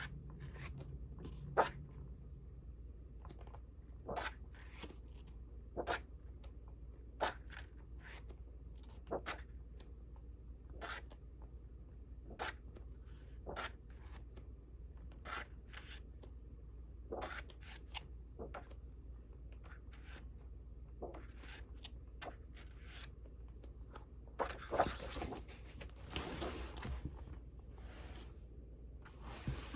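Sheets of patterned scrapbook paper being turned over one at a time, a short paper flick every second or two, with a longer rustle of handled paper near the end.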